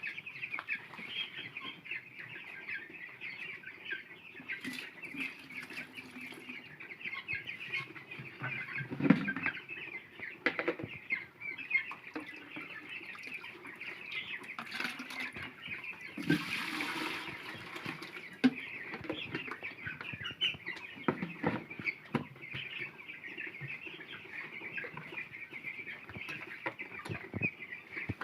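A flock of chickens clucking and chattering without pause, many birds calling over one another, with scattered knocks and a brief rustling burst about two-thirds of the way through.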